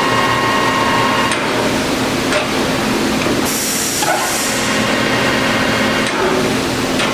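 Harrison M300 engine lathe running, a steady mechanical drone with a gear whine from its headstock. There are a couple of light ticks and a brief hiss about halfway.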